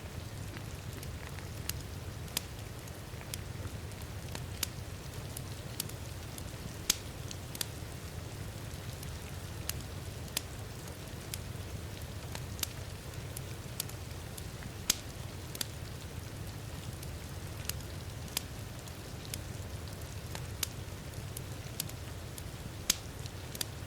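Wood fire crackling, with irregular sharp pops about once or twice a second, over the steady hiss and low rumble of heavy rain.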